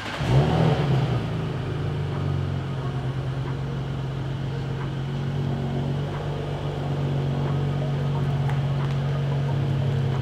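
Audi B9 S4's 3.0 L turbocharged V6 exhaust, flaring briefly about half a second in, then settling into a steady idle.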